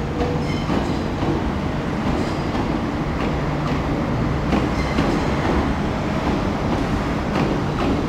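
MTR electric multiple-unit passenger train running past on a curve: a steady rumble of wheels on rail with clicks over the rail joints and a few short high-pitched wheel squeals.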